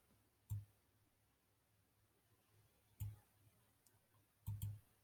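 Computer mouse clicks over near silence: one click about half a second in, another around three seconds in, and a quick double click near the end.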